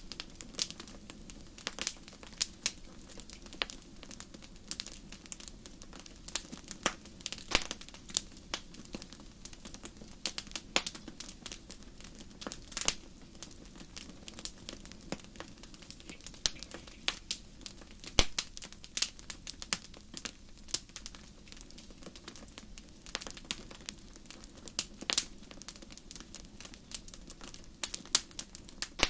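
Fire crackling: irregular sharp pops and snaps, a few each second, over a steady low rumble.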